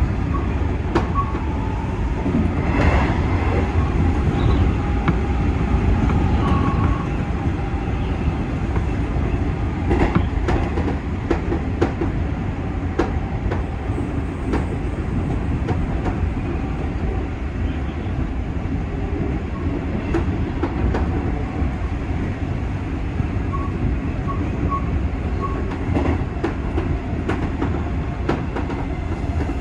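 JNR 201 series electric multiple unit running at speed, a steady rumble with irregular sharp clicks of the wheels over rail joints.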